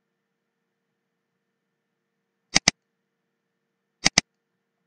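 Computer mouse button clicked twice in quick succession, then again about a second and a half later: two sharp double clicks.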